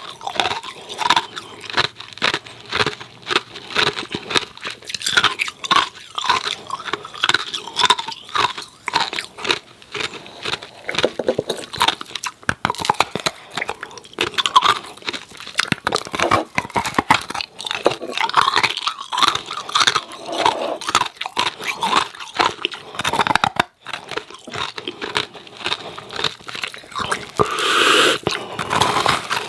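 Hard ice cubes being bitten and chewed: a dense, continuous run of sharp, crackling crunches.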